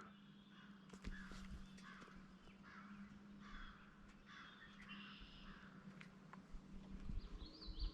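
Faint calls and songs of several wild birds, including a harsh cawing call, over a low steady hum.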